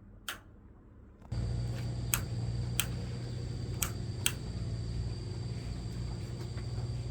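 Pickup truck engine running with a steady low hum, coming in suddenly about a second in after a quieter stretch, with a few sharp clicks over it.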